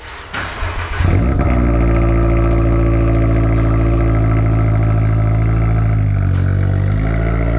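Toyota GR86's 2.4-litre flat-four cranked on the starter and catching about a second in. It settles into a steady, loud idle through a Borla S-type aftermarket exhaust. Near the end the engine note dips and recovers as the car begins to pull away.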